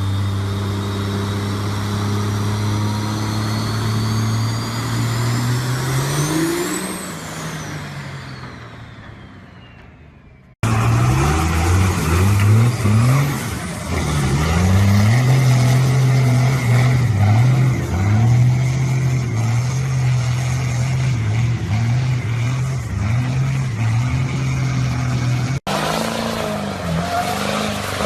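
Diesel pickup truck engines in three short clips. In the first, an engine runs steadily with a high whistle, then both rise in pitch, fall away and fade as the truck goes past. In the second, an engine revs up and drops back many times in quick succession. In the last, there are a few short revs.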